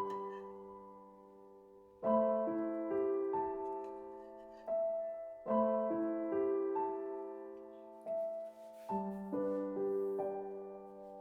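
Soft background piano music: slow phrases of struck notes, each left to ring and fade.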